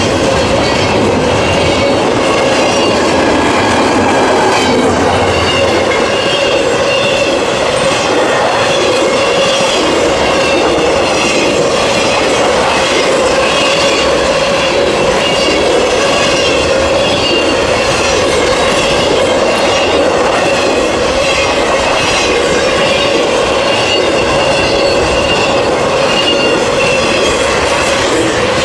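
Intermodal freight train cars, double-stack container cars and trailer flatcars, rolling past close by: a steady loud rush of steel wheels on rail, with repeated clicking over the rail joints and steady ringing tones from the wheels.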